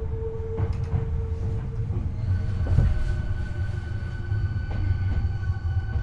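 Hankyu 8300-series electric train running, heard from the floor above the bogie, which the recordist describes as abnormal-sounding: a steady wheel and motor rumble. About two and a half seconds in, a set of high steady tones from the Toyo IGBT-VVVF inverter comes in. There is a single knock about three seconds in.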